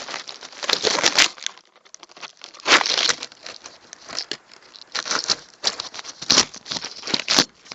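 Irregular rustling and scraping bursts of handling noise as a phone is fumbled with, fingers and surfaces rubbing close to its microphone.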